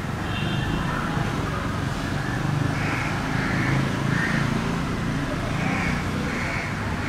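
Steady low background rumble with a short high bird call near the start, then faint bird calls repeating about once a second.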